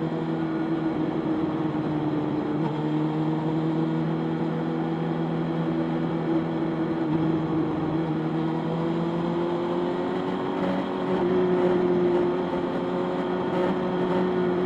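Motorcycle engine running steadily while riding, its pitch rising slightly about ten seconds in.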